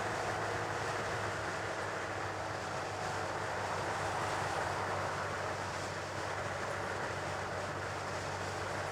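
Steady riding noise from a Honda Grom on the move: wind rush over the microphone with the 125 cc single-cylinder engine running underneath, holding an even level.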